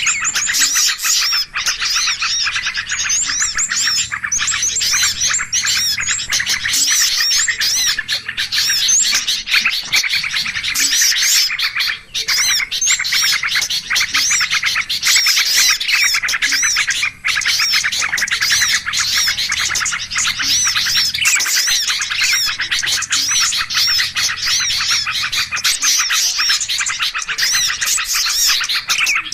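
A dense, noisy chorus of many small birds chirping and calling over one another without pause, as used in a bird-lure recording to draw small birds in.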